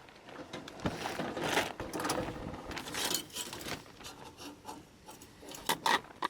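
Irregular scraping, rustling and light knocks of gear being handled and rummaged through, with a couple of sharper knocks near the end.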